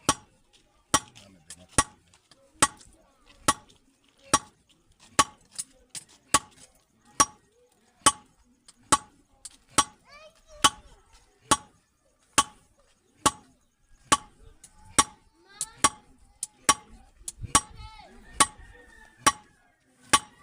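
Blacksmith's hammer striking metal on an anvil in a steady working rhythm: about one heavy ringing blow a second, with lighter taps in between.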